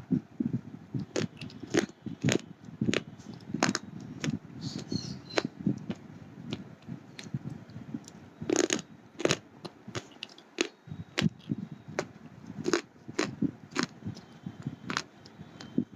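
Hard slate pencils being bitten and chewed close to the microphone: repeated sharp, irregular crunches and cracks over a continuous low grinding chew.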